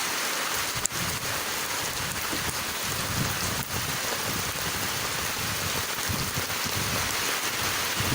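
Heavy tropical-storm rain pouring steadily, with a single sharp click about a second in.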